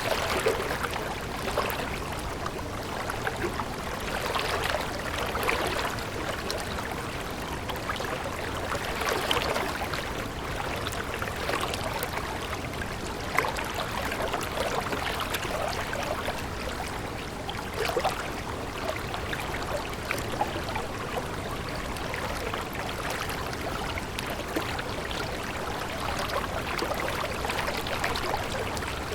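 Running water of a stream, babbling steadily.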